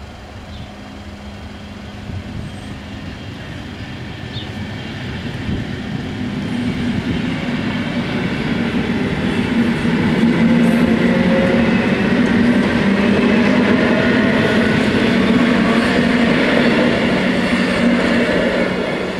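NMBS MS75 electric multiple unit passing over a level crossing. Its running noise builds over the first ten seconds, stays loud while the carriages go by, and drops off near the end as the tail clears.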